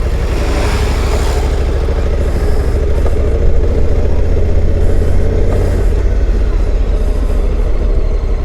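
Honda Africa Twin's parallel-twin engine running at low speed, a steady low drone.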